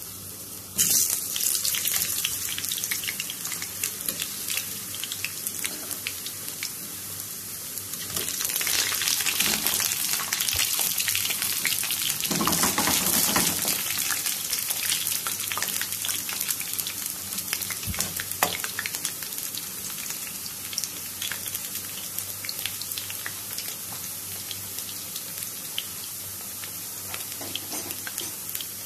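Potato slices shallow-frying in hot oil in a frying pan: a steady crackling sizzle that swells louder a few times in the first half, then settles to an even, slightly quieter sizzle.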